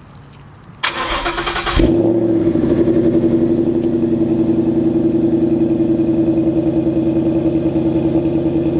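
Cold start of a 2014 Mustang GT's 5.0 L Coyote V8 through an aftermarket axle-back exhaust: the starter cranks for about a second, the engine fires, and it settles into a steady idle.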